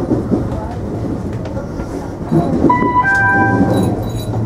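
JR West 227 series electric train running, a steady low hum and rumble of the moving train, with a few short steady tones sounding together about three seconds in.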